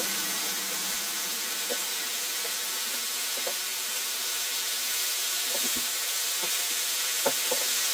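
Breaded chicken strips frying in hot oil: a steady sizzle with a few small crackles.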